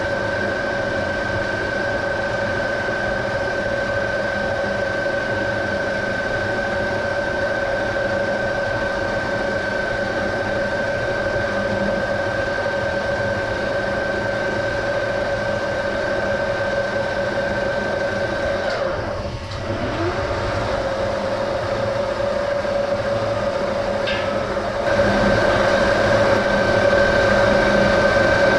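Metal lathe running at slow speed (about 90 RPM) while cutting a thread in copper pipe, with a steady whine over the machine's running noise. The sound dips briefly about two-thirds of the way through and is louder for the last few seconds.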